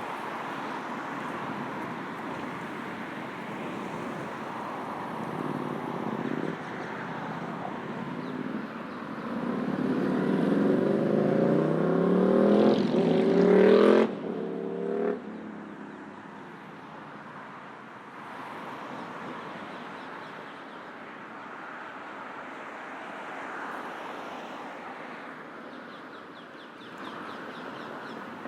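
Busy road traffic with a vehicle engine accelerating hard nearby, its pitch rising through several seconds until it cuts off suddenly about halfway through; lighter traffic hum follows.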